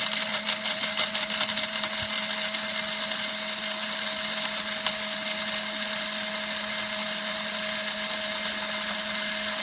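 Cordless battery-powered blade coffee grinder running at a steady pitch, its stainless steel blade grinding a spoonful of coffee beans to a coarse grind.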